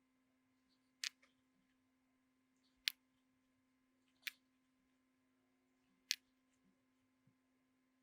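Four short, sharp clicks spaced one to two seconds apart over a faint steady hum.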